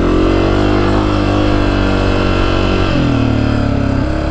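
2024 Honda CRF250F dirt bike's single-cylinder four-stroke engine running under throttle, its pitch holding high and then dropping about three seconds in as the revs fall.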